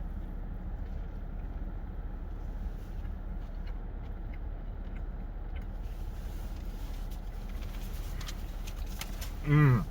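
Steady low background hum with a few faint clicks, then near the end a short voiced sound from the eater that falls in pitch.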